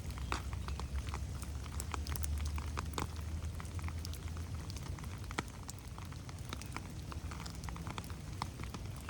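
Rain falling in a forest, with many irregular drops pattering close by over a steady hiss. A low rumble runs underneath, strongest in the first half.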